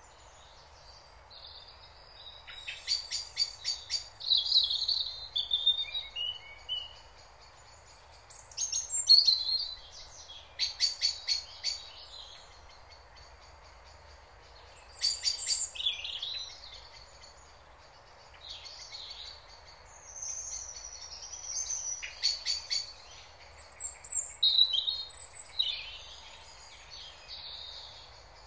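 Songbirds singing: short phrases of quick chirps and rapid trills that come and go every few seconds, over a faint steady background hiss.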